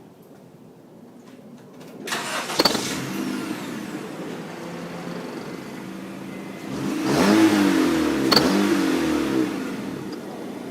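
Car engine starting about two seconds in, then running, and revved up and back down around seven seconds in, through an exhaust fitted with an aftermarket turbo whistle.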